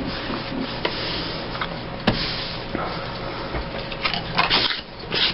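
Paper being handled over a steady low hum: a sharp click about two seconds in, then quick rustling and rubbing strokes of paper near the end, as a glued piece is pressed down onto a page.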